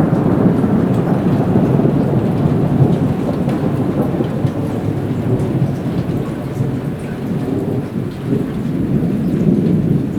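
Heavy rain falling through a long rumble of rolling thunder that eases a little past the middle and swells again near the end, with scattered raindrop ticks on top.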